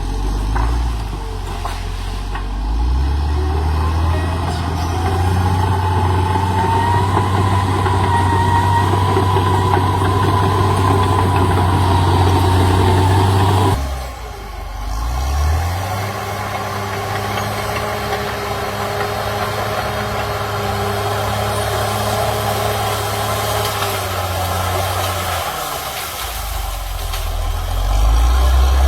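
CAT D6R XL bulldozer's diesel engine running under work, its speed rising and falling, with a sudden drop about halfway through and another pick-up near the end. A steady whine sits over the engine through the first half.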